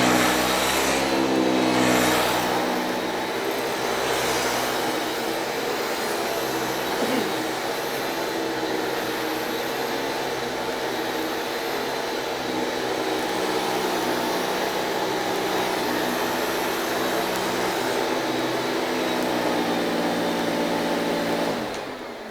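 Hoover Celebrity IV canister vacuum cleaner running with a steady motor hum and airflow hiss. Near the end it is switched off and the motor winds down, its pitch falling.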